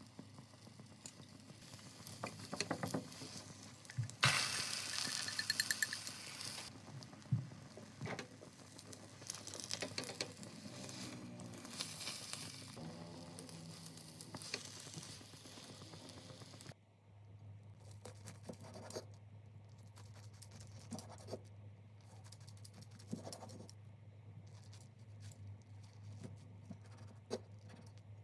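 Light handling noises: scattered taps and clicks, with a brief hissing rush about four seconds in. After a cut at about 17 s, a steady low hum sits under occasional soft clicks.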